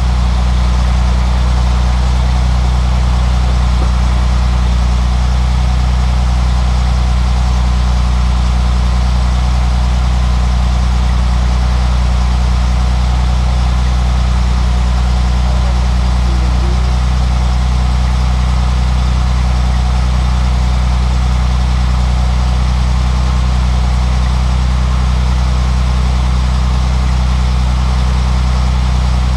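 A 1950 Dodge's newly installed engine idling steadily on its first run, a deep, even hum with no revving.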